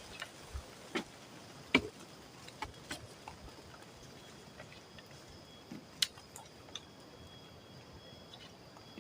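Insects calling in a steady high thin tone, with a second, slightly lower tone joining near the end, under scattered sharp clicks and knocks, the loudest about six seconds in.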